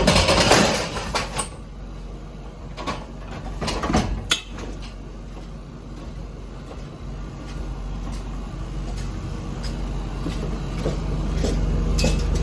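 Pallets being loaded into a box truck at a loading dock: a steady low engine hum with scattered knocks and rattles. A loud rush of noise comes in the first second and a half, and the hum swells toward the end.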